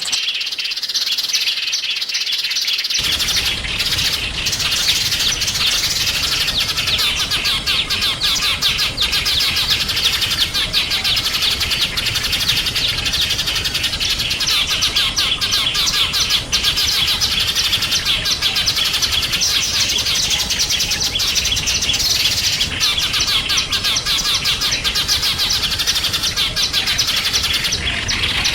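A dense chorus of small songbirds chirping and twittering rapidly and continuously, with no pauses; a low background noise comes in abruptly about three seconds in.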